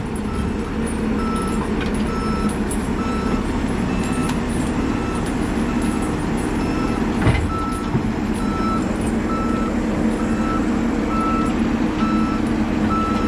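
Backup alarm of heavy logging equipment beeping evenly, about three beeps every two seconds, over a steady-running engine. A single sharp knock about seven seconds in.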